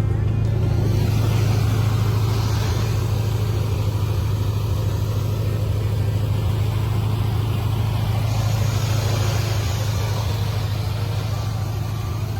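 A 383 cubic-inch stroker small-block V8 in a 1976 Chevrolet Corvette Stingray, running with a steady deep rumble.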